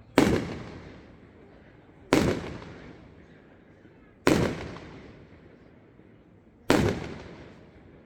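Fireworks display: four loud bangs about two seconds apart, each trailing off in an echo that fades over about a second.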